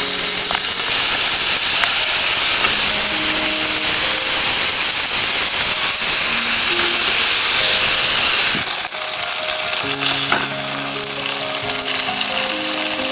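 Loud sizzling hiss that drops off sharply about eight and a half seconds in, then carries on more softly, over background music with short melodic notes.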